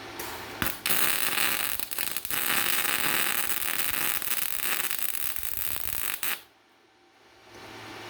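Electric welding arc hissing and crackling for about six seconds, then cutting off abruptly as the bead is laid on a steel engine mount.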